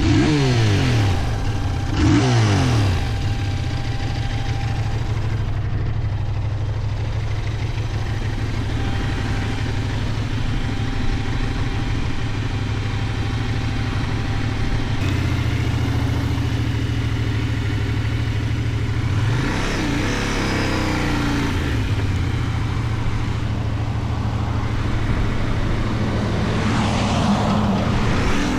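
Benelli Tornado 550's 554 cc parallel-twin engine under way. Its revs fall twice at the start, then it holds steady for a long stretch. Around two-thirds of the way through it revs up and drops back, and it revs up again near the end.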